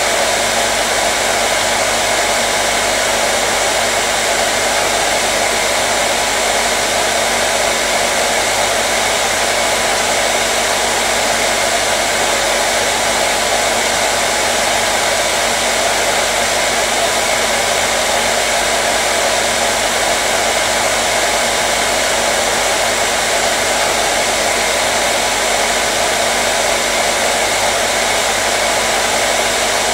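Hair dryer running steadily: an even, unbroken rush of air with a constant motor hum, used as white noise to calm a colicky baby.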